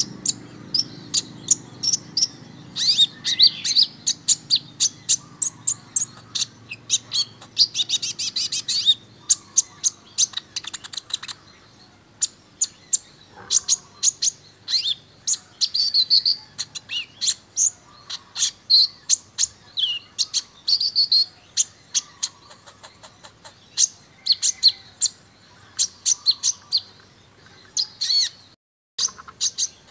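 Kolibri ninja sunbird singing continuously: rapid strings of sharp, high-pitched chirps and fast trills, with a brief break near the end.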